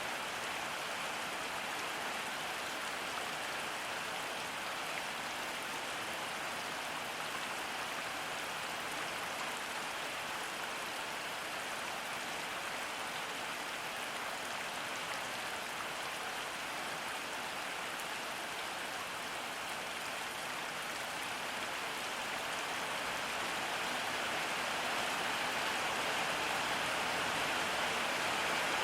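Steady rain falling, a dense even patter, growing a little heavier near the end.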